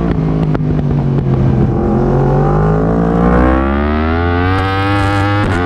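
Yamaha R1 inline-four racing engine heard from on board: the revs sink for about two seconds, then climb steadily under hard acceleration, and a sharp break near the end drops the pitch as it shifts up a gear.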